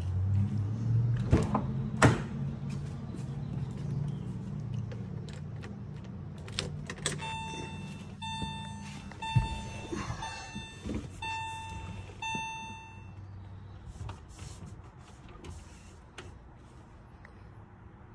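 Porsche flat-six idling as a low steady hum that fades after about six seconds, with a couple of sharp knocks early on. In the middle, the car's warning chime beeps about six times at one steady pitch.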